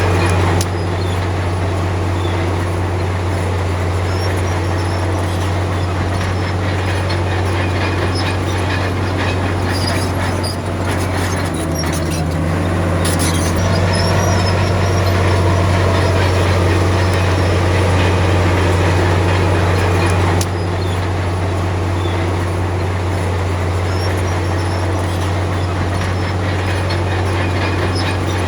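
Heavy diesel earthmoving machinery running: a deep, steady engine drone with metallic clanks and rattles throughout. The level shifts abruptly a few times.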